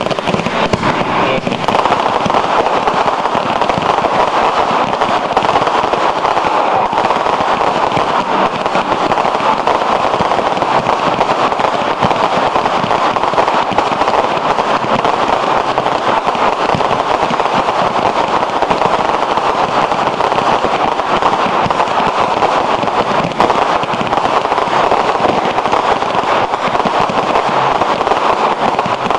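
Fireworks going off in a dense, continuous crackle of rapid small pops that holds steady and loud throughout.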